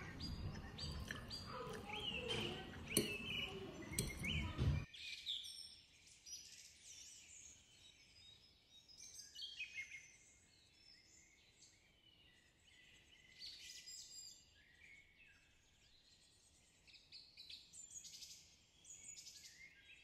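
Faint small birds chirping and twittering, thin and high with no low end. For about the first five seconds this sits under household sound, with voices and light clicks, which cuts off abruptly.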